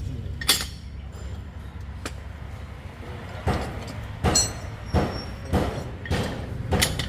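Metal tools clinking and knocking against metal parts, about eight separate strikes, some with a short ringing tone, over a steady low hum.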